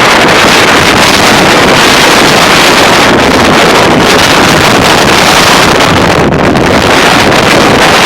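High wind gusting to about 60 mph, blowing hard across the microphone in a loud, steady rush.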